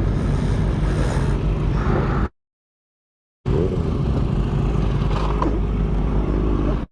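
Motorcycle engine running with heavy road and wind noise. The sound cuts out completely for about a second, a third of the way in, then resumes.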